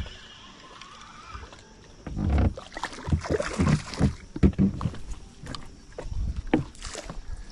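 Handling noise: irregular knocks, thumps and rustling, starting about two seconds in and dying down near the end, as a small trout and gear are handled in a boat.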